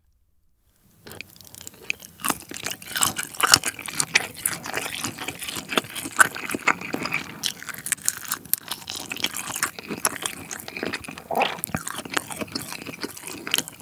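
Close-miked chewing of a whole shell-on red shrimp, starting about a second in: wet mouth sounds with many crisp crunches of shell.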